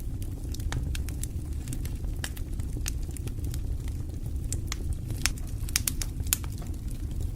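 Wood fire burning in a fireplace: a steady low rumble of flames with frequent irregular crackles and pops, a few sharper pops around five to six seconds in.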